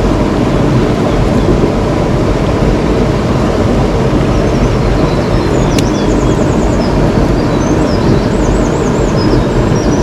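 Mountain stream water rushing steadily and loudly, with high chirping calls over it in the second half.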